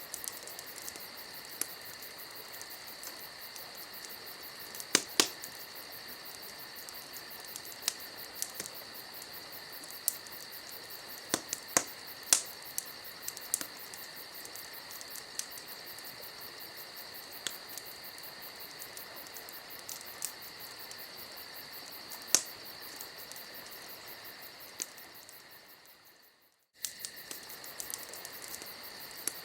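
Campfire crackling with scattered sharp pops, over a steady high chirring of night insects. The sound fades out about three seconds before the end and starts again straight after, as a looped recording does.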